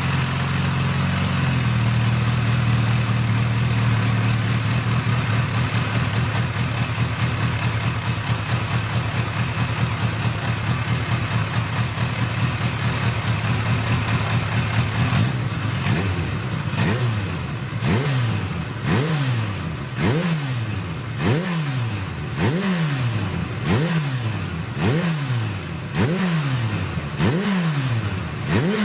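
Kawasaki H2 SX's supercharged inline-four idling steadily just after starting, the idle dropping slightly in the first couple of seconds. From about halfway the throttle is blipped over and over, roughly one short rev every second and a bit, each rising and falling back to idle.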